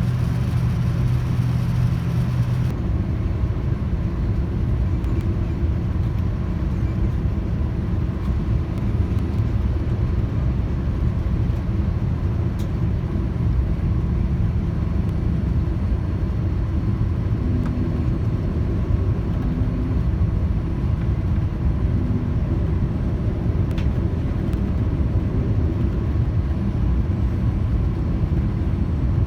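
Steady low rumble and rushing air inside the cabin of a Boeing 787-9 in flight on descent. A steady hum and the higher hiss stop about three seconds in, leaving the low rumble.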